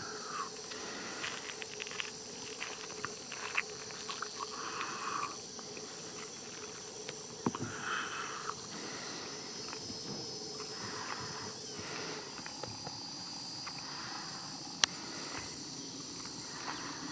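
Outdoor marsh ambience: a steady high-pitched drone of insects, with a few short bird calls and scattered sharp clicks.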